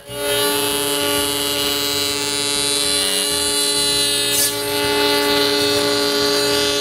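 Electric wood router running at full speed, a steady high whine, as it trims a pine sign blank along a plywood pattern.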